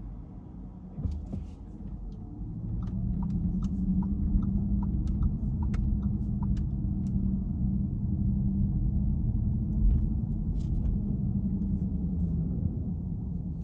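Car driving, a low road and engine rumble that builds a couple of seconds in, holds steady, then eases near the end. A quick run of short ticks, about three a second, sounds for a few seconds early on.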